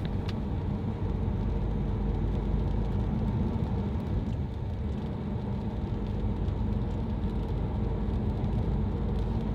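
Car driving, a steady low rumble of road and engine noise heard from inside the cabin, with a couple of clicks right at the start.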